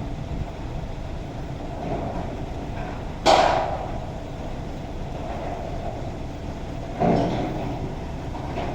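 A truck engine running steadily, with two sudden loud sounds, about three seconds in and again about seven seconds in.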